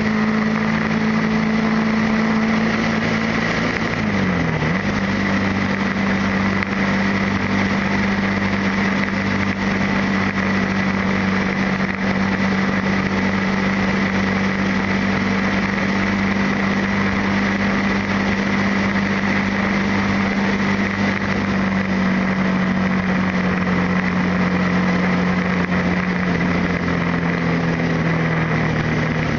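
Motorcycle engine running steadily under way, over a constant rush of wind and road noise. About four seconds in, the engine note drops sharply and comes straight back up, and near the end it eases slightly lower.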